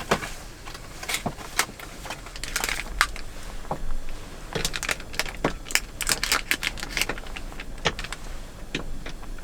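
Irregular clicks, taps and crinkles of small objects being handled at close range, a few strokes a second with short pauses.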